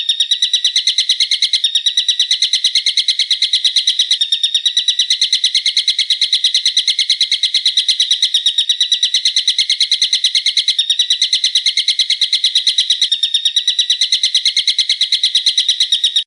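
A songbird's sharp, piercing call repeated in a fast, even chatter of several notes a second, the kind of recording played to caged songbirds for them to learn. It starts and stops abruptly.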